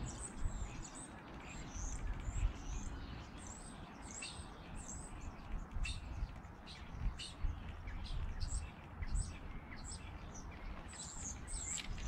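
Small birds chirping: many short, high chirps in quick succession, over a steady low rumble.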